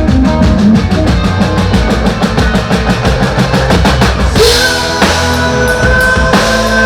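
Rock band playing live through a PA: a driving drum kit with fast, even beats, bass and guitars, with held guitar lead notes coming in about halfway through.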